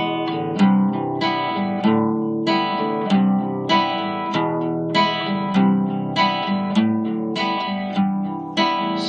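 Acoustic guitar strummed in an even rhythm, a chord struck about every 0.6 seconds and left ringing: the instrumental opening of a song before the singing comes in.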